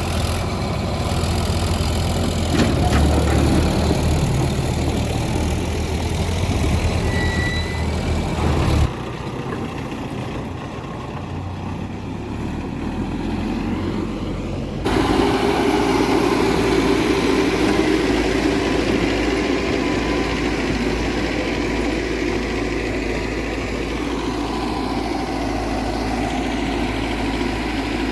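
Heavy diesel machinery engines running steadily. The sound changes abruptly twice, about a third of the way in and again about halfway.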